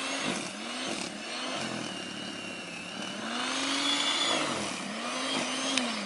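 Small Snow Joe electric snow blower running, its motor whine sagging and recovering again and again as the auger bites into the snow.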